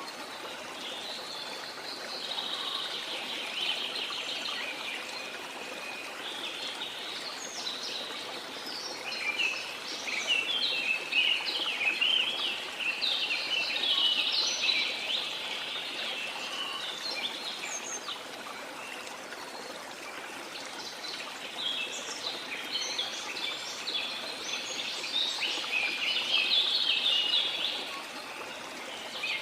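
Rainforest birds chirping and singing over the steady rush of a waterfall. The birdsong thickens into busy stretches twice, about a third of the way in and again shortly before the end.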